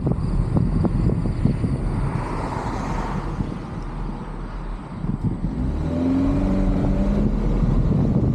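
Wind buffeting a roof-mounted camera's microphone on a moving vehicle, with steady road noise. A passing vehicle swells and fades a couple of seconds in, and a low steady engine hum comes in near the end.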